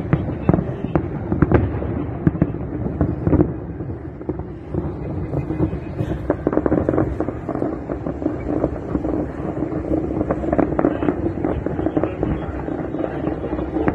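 Aerial firework shells bursting in a rapid, irregular barrage, many bangs in quick succession, easing briefly about four to five seconds in before picking up again.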